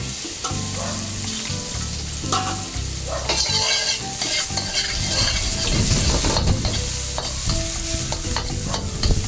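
Garlic, dried red chili peppers and green onions sizzling in hot oil in a wok as they are stirred and sautéed, a dense hiss of frying with the clatter of stirring.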